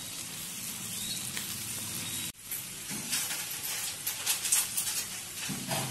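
Clam meat and grated coconut frying in oil in a pan, sizzling steadily while being stirred. The sound cuts out for an instant about two seconds in, then comes back with a run of sharp crackles in the second half.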